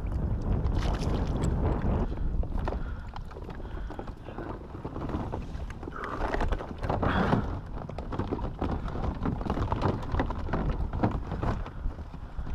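Wind buffeting the microphone with a steady low rumble, over scattered knocks and rustling of handling, with a louder rushing swell about halfway through.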